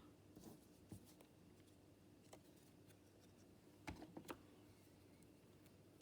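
Near silence with a few faint, short taps and clicks: one about a second in, another a little after two seconds, and three close together around four seconds.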